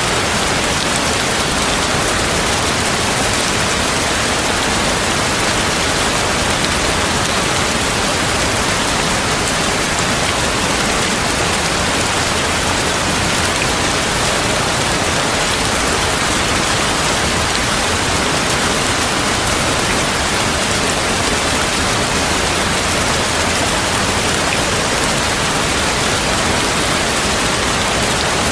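Steady heavy rain: an even, unbroken hiss of downpour with no thunder.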